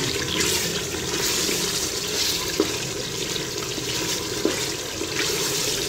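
Beef and masala sizzling in hot oil in a metal pot as the curry is fried (bhuna) and stirred with a wooden spatula. A steady frying hiss with a couple of light knocks from the spatula.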